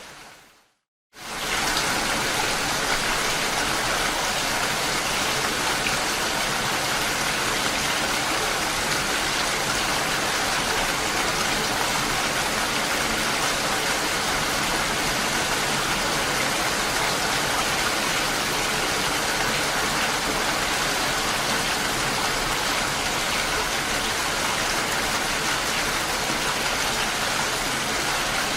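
Steady rainfall, an even rushing hiss. A short silence at the very start, after the rain fades out, then the rain comes back in abruptly about a second in and runs on evenly.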